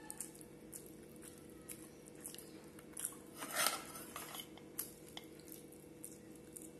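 Close-up eating sounds: a person chewing with open-mouth smacks and small wet clicks, while eating rice, curry and fried fritters by hand. A louder bite or crunch about three and a half seconds in.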